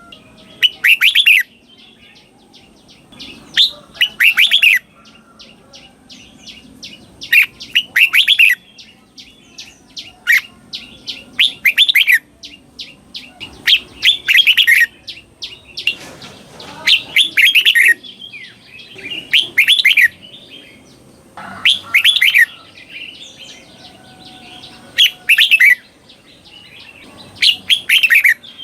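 Red-whiskered bulbul singing: loud, short, fluttering phrases repeated every two to three seconds, with fainter chirps between them.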